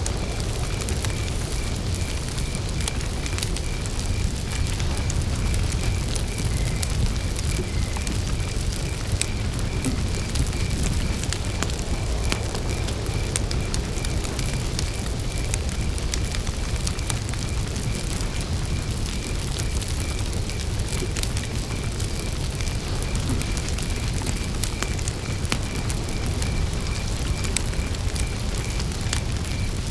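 Wood campfire burning with a low steady rumble and scattered sharp crackles and pops. Over it, a cricket chirps in an even, unbroken pulse at one high pitch.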